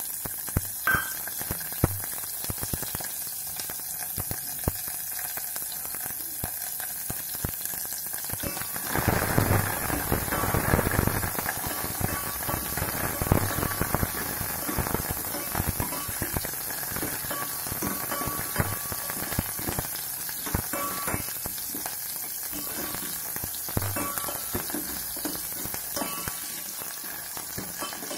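Shallots and garlic cloves sizzling and crackling in hot sesame oil with mustard seeds in a steel pot. A steel spoon stirs and scrapes against the pot. The frying grows louder for a few seconds about nine seconds in.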